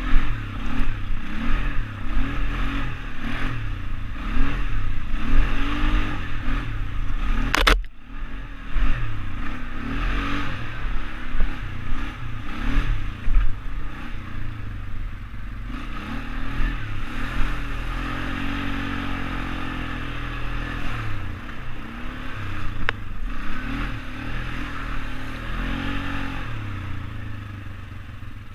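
ATV engine running under way, its pitch rising and falling repeatedly as the throttle is worked, with a sharp click about eight seconds in.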